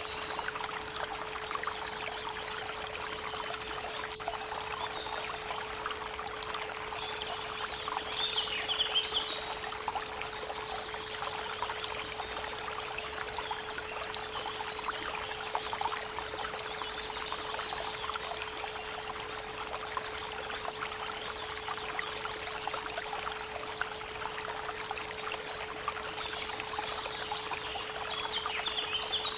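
Creek water running with a steady trickling hiss, and birds singing now and then, most clearly near the start, about a third of the way in, and near the end. A steady 432 Hz pure tone hums underneath.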